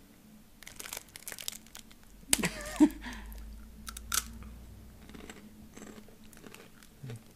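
A person biting into and chewing a crunchy Japanese snack, in irregular crunches, with a brief louder sound about two and a half seconds in.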